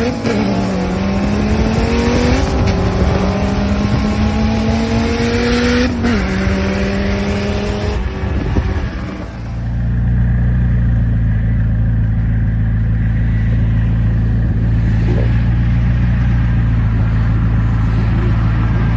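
A car's engine accelerating hard through the gears: its pitch climbs and drops back at each upshift, about three times, with a loud rush of wind and road noise. Just past halfway it settles into a steady low drone.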